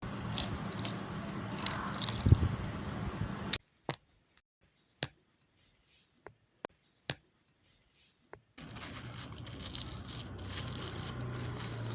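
Paper fidget toys being handled: rustling and scraping of paper, with single sharp clicks in between.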